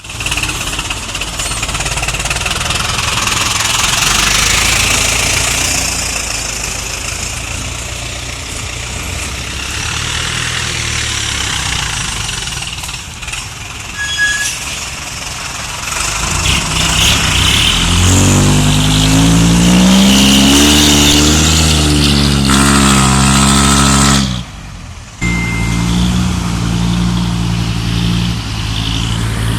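Dump truck engine running with heavy road and wind noise. Past the middle the engine note climbs steadily under acceleration, cuts off sharply for under a second as if for a gear change, then carries on at a steady pitch.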